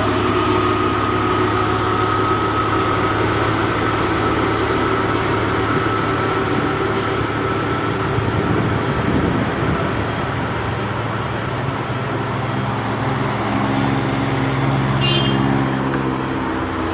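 Heavy truck engine running steadily under load, with a few short hisses.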